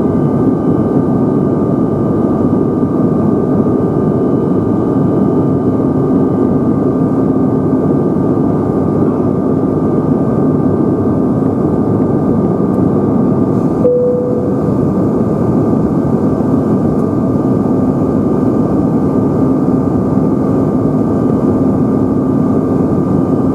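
Steady cabin noise of a Bombardier CRJ-900 in flight: the drone of its rear-mounted jet engines and rushing air, with a constant hum running underneath.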